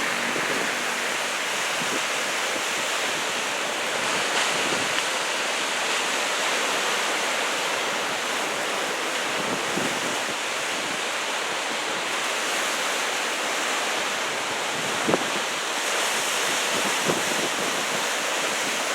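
Heavy ocean surf from typhoon swell, a steady wash of breaking waves, with wind rumbling on the microphone. A couple of brief faint knocks come near the end.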